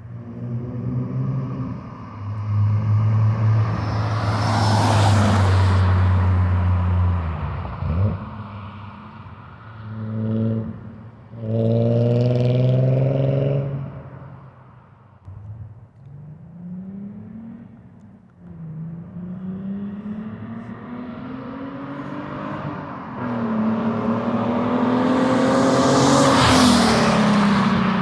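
Nissan 300ZX's naturally aspirated 3.0 V6 with a custom exhaust accelerating hard in several pulls, the pitch climbing with each one. Near the end it comes past loudly and the pitch drops as it goes by.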